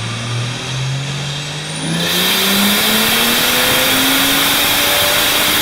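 Car engine accelerating, its pitch rising steadily. About two seconds in, a loud rushing noise joins it and holds.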